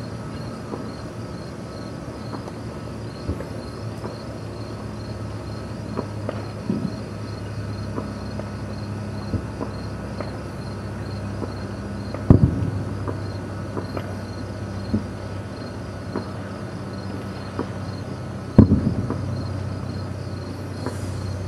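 Distant fireworks going off: scattered small pops and two much louder booms with a rolling echo, about twelve and nineteen seconds in. Crickets chirp steadily underneath.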